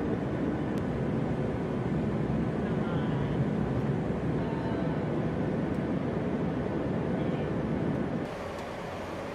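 Steady drone of aircraft engines in flight, with faint voices underneath. About eight seconds in it drops to a quieter, thinner hiss.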